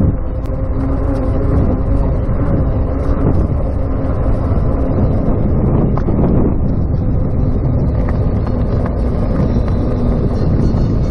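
Steady low rumble of wind rushing over the microphone, with road noise from a moving electric bicycle.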